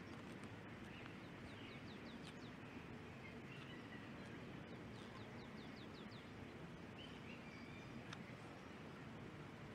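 Songbirds calling: quick runs of short falling chirps about a second in and again around four to five seconds in, with a couple of brief whistles later, over a faint steady outdoor hiss.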